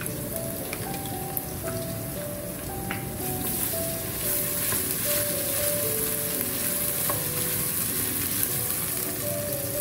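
Garlic paste and browned onions sizzling in hot oil in an aluminium pressure cooker, stirred with a spoon that gives a few faint scrapes and taps. A soft melody of background music plays over it.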